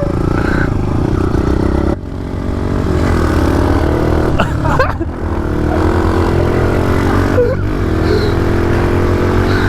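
Pit bike engine running under throttle while riding, its pitch climbing as the bike accelerates, with a sudden drop and change in the engine note about two seconds in.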